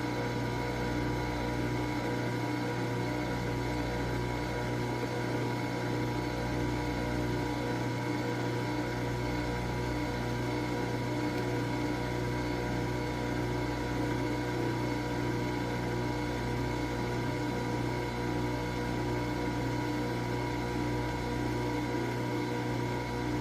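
Nespresso Vertuo Pop+ coffee machine brewing: a steady mechanical hum with a constant whine, as the machine spins the capsule and pumps water through it.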